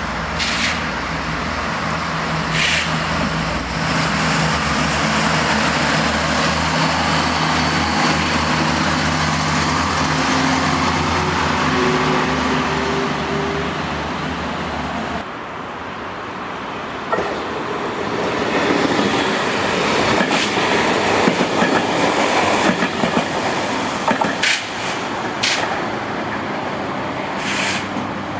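A regional TER train passing with a steady low drone and wheel noise, which cuts off about halfway through. Then a second TER multiple unit approaches, its wheel-on-rail noise rising, with a few sharp clicks near the end.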